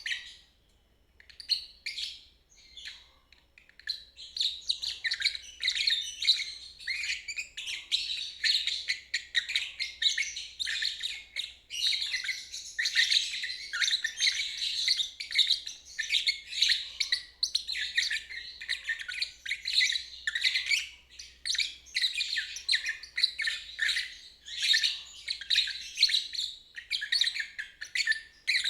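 Lovebird chattering in the long, unbroken 'ngeriwik' song: a few short separate chirps, then from about four seconds in a dense run of rapid high twittering that goes on without a break.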